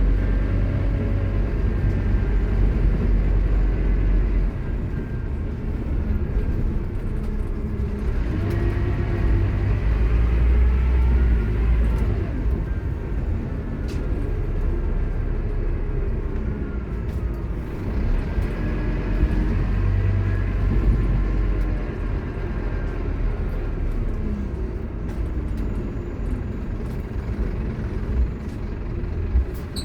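Scania K230UB Omnilink bus under way: its engine rumbles and its ZF Ecomat automatic gearbox gives a loud whine that rises in pitch as the bus gathers speed, then drops away, several times over.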